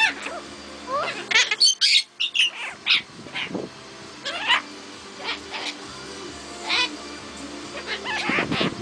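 Pet birds calling: a run of short chirps and squawks, some sliding up or down in pitch, thickest about one and a half to two and a half seconds in and again near the end.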